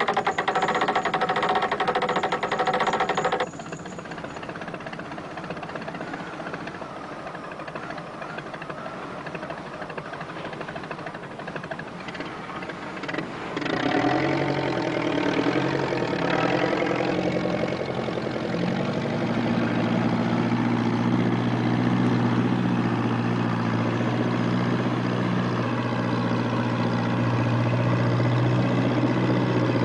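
A motor engine starting up about fourteen seconds in and then running steadily with a low, even throb, after a softer stretch of noise.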